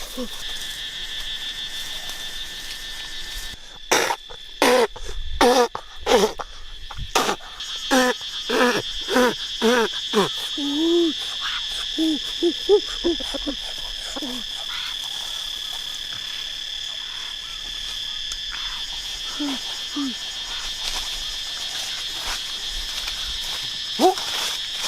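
A steady, high insect drone runs throughout. From about four seconds in to about fourteen seconds, a run of short, pitched animal calls sounds several times a second, with a few more calls near twenty seconds.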